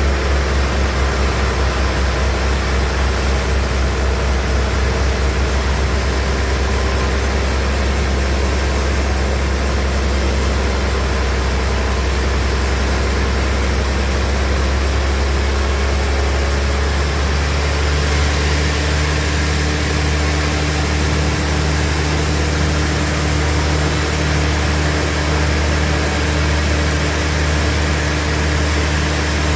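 Band sawmill machinery running with a steady, loud low hum. A little past halfway the sound shifts: the deepest rumble drops away and a different steady hum sets in.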